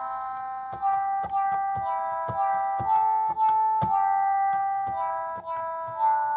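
Keyboard music: a melody of steady, piano-like held notes, about two new notes a second, each starting with a sharp attack.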